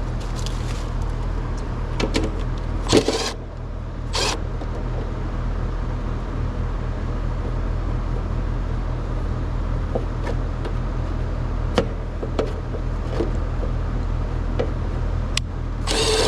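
A steady low machine hum, with scattered clicks and knocks of parts and tools being handled: a louder pair about three and four seconds in, and another near the end.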